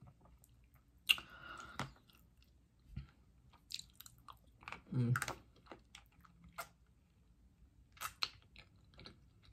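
Close-miked chewing and biting of stewed oxtail meat: soft wet mouth clicks and smacks, with a short voiced sound about five seconds in.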